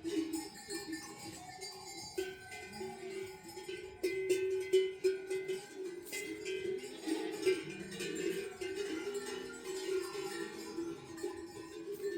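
Livestock bells on a flock clanking and jingling irregularly, with a dense, wavering background of animal calls.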